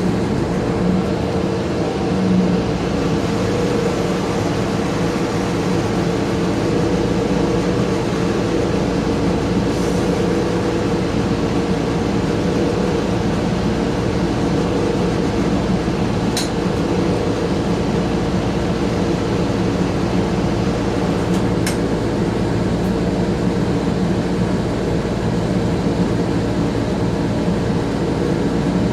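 Inside an Orion VII compressed-natural-gas transit bus: the engine and the HVAC system running together as a steady drone with several steady hum tones. A few faint clicks or rattles sound in the second half.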